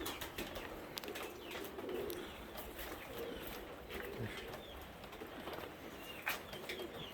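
Domestic pigeons cooing softly in a loft, with scattered short high chirps and a few light clicks.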